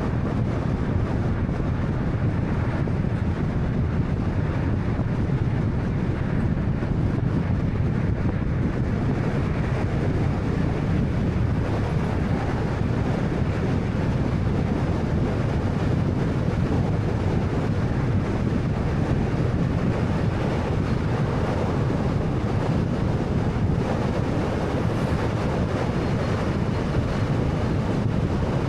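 Steady road noise of a moving 2013 Honda Fit: tyre roar and engine hum, unbroken and even.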